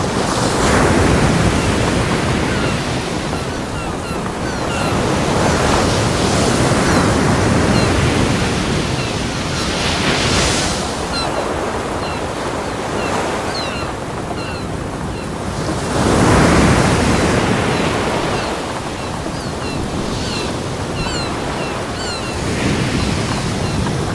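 Ocean waves breaking on a beach: a steady wash of surf that swells into a louder crash about every four to six seconds and then recedes.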